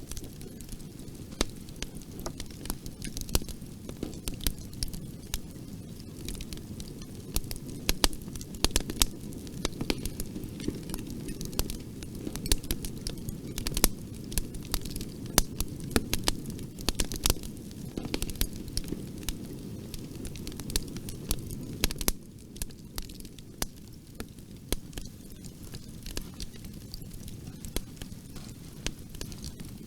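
Bonfire burning steadily: a low rumble of flames with frequent sharp crackles and pops of burning wood, coming thickest in the middle and thinning a little near the end.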